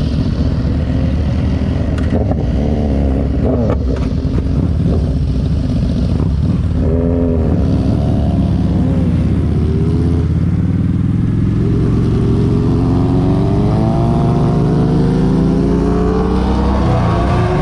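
Kawasaki Vulcan Vaquero 1700's V-twin engine running under way, its pitch rising several times as it accelerates, with a long steady climb in the last few seconds.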